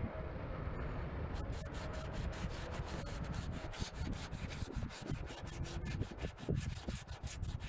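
400-grit sandpaper rubbing across a plastic car indicator lens, grinding the faded surface off. The rubbing turns into fast, even back-and-forth strokes about a second and a half in.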